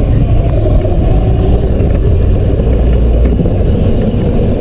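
Dirt bike engine running, loud and steady with a heavy low rumble.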